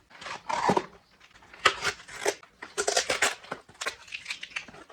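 A parcel being handled and opened by hand: irregular rustling, crinkling and scraping of packaging with a few sharp clicks.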